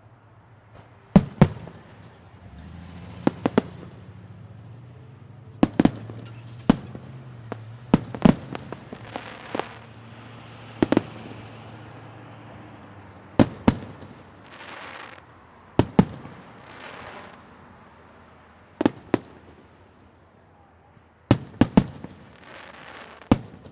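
Aerial fireworks bursting overhead: sharp bangs every couple of seconds, many in quick pairs, with short crackling hisses between them.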